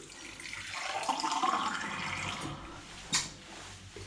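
Water running and splashing for about three seconds, then a sharp knock.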